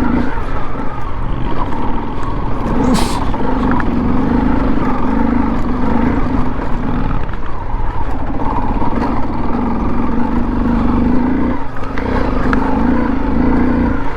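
Motorcycle engine running as the bike rides slowly off-road, its speed dipping briefly a couple of times, over a low wind rumble on the microphone.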